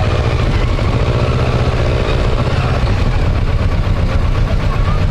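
Motorcycle engine running at a steady, even pitch, with wind and road noise over it.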